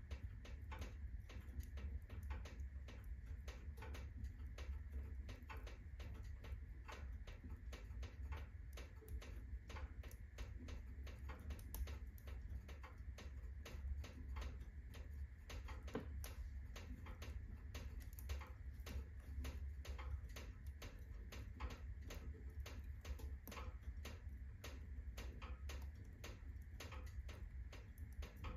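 Wood fire burning at full blaze in a fireplace: firewood crackling and popping in dense, irregular clicks over a steady low rumble.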